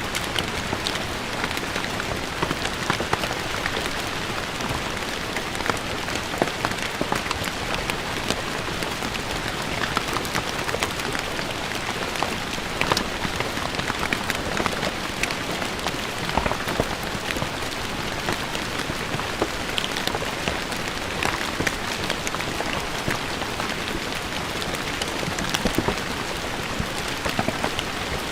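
Steady rain falling on stone paving, with a constant hiss and many distinct drops spattering close by.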